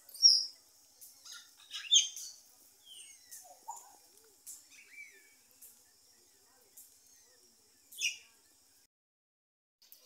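Small birds chirping: scattered short, high chirps, loudest right at the start, about two seconds in and about eight seconds in, over a faint steady high hiss.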